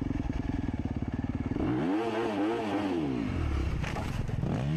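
Dirt bike engine running steadily, then revved up and back down about two seconds in, and revved again near the end, with a couple of short knocks between.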